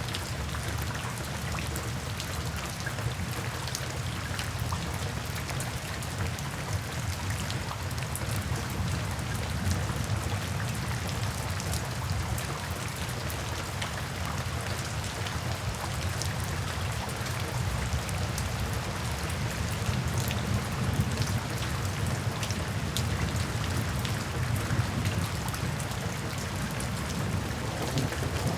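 Steady rain falling, with many individual drops ticking sharply on a surface over a constant low rumble.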